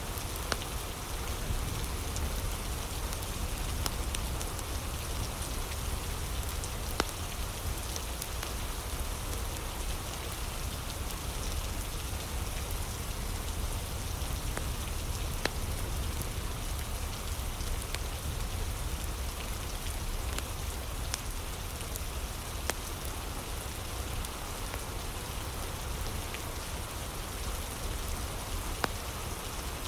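Steady rain falling, with a few scattered sharp pops of a crackling wood fire now and then.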